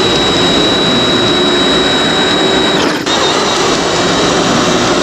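Two giant brushless electric RC trucks, a Traxxas X-Maxx and an ARRMA Outcast 8S, launched at full throttle in a drag race. The sound is a loud, rushing drivetrain and tyre noise with a steady high-pitched motor whine, and it dips briefly about three seconds in.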